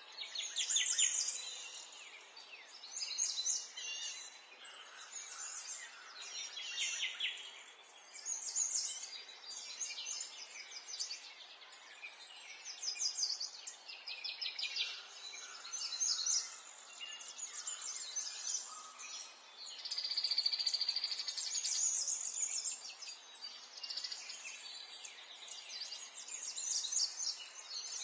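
Several songbirds singing, a steady chorus of quick chirps and trills, over faint background hiss.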